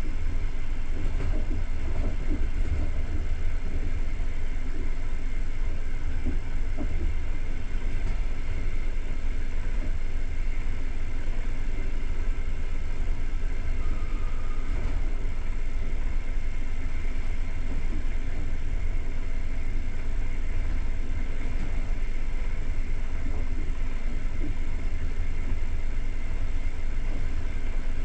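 Passenger train running along the line, heard from inside the coach: a steady low rumble of wheels on rails and running gear.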